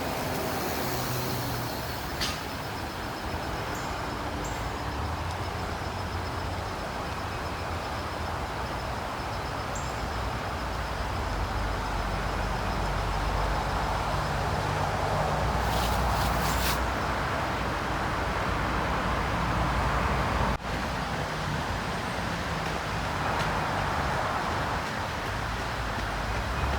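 Road traffic going by: a steady rush of tyres and engines with a low rumble, swelling a little in the middle and again near the end.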